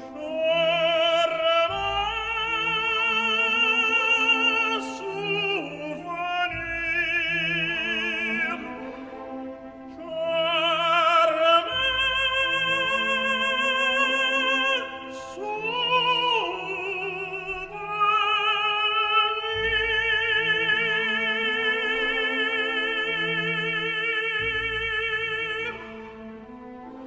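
Operatic solo voice singing an aria with wide vibrato over orchestral accompaniment, in several long held phrases; the music drops away near the end.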